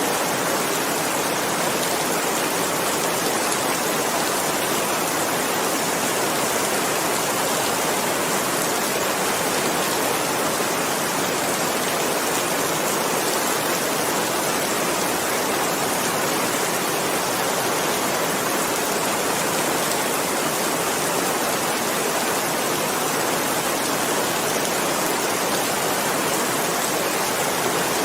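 Steady, even rain: a dense hiss of falling rain with no single drops standing out.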